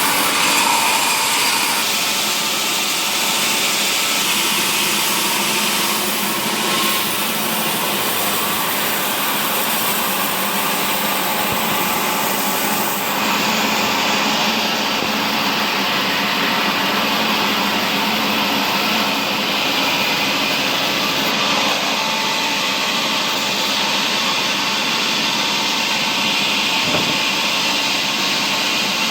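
Sawmill machinery running steadily as mahogany timber is cut, a continuous even noise with no breaks.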